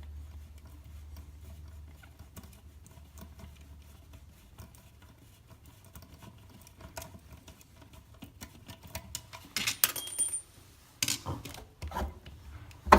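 Small clicks, scrapes and light knocks of a screwdriver and plastic fittings being worked at a wall power point as the old unit is unscrewed and taken off. A few louder knocks come near the end.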